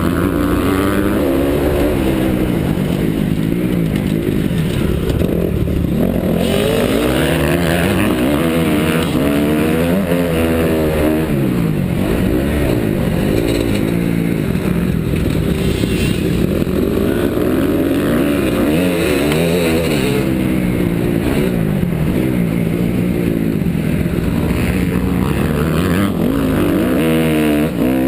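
2009 Honda CRF250R's single-cylinder four-stroke motocross engine under race load, its pitch climbing and dropping again and again as the throttle is opened and shut through the corners and gears.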